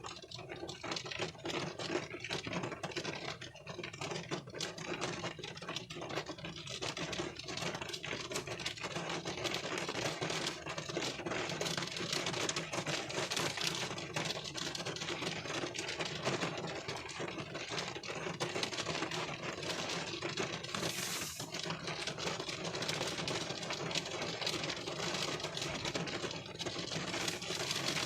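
Rain pattering on a car windshield, heard from inside the car: a dense, steady stream of small drop ticks. A brief high hiss comes about three-quarters of the way through.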